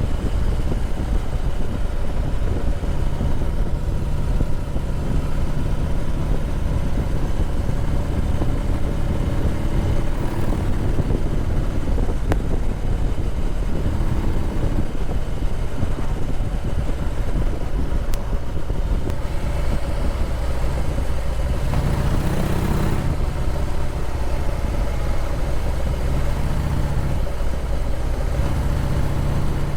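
Harley-Davidson Heritage Softail Classic's V-twin engine running steadily, with a brief swell of louder rushing noise about three-quarters of the way through.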